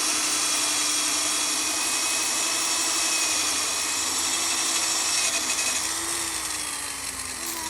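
An electric power tool running at a steady high whine with a dense hiss, its motor pitch sliding down near the end as it slows.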